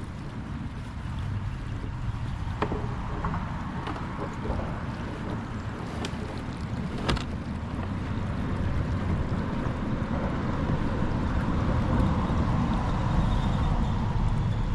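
Rough wind noise on the microphone over the river, with a few sharp knocks about a third and half way through.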